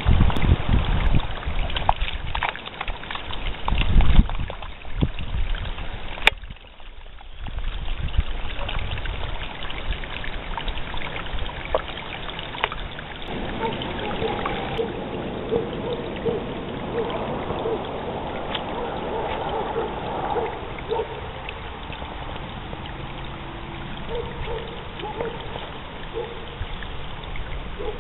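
Wind buffeting the microphone in gusts for the first several seconds, then a steadier outdoor background with faint, repeated short tones.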